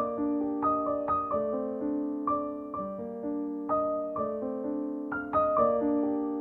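Background piano music, gentle and slow, notes struck a few times a second and left to ring.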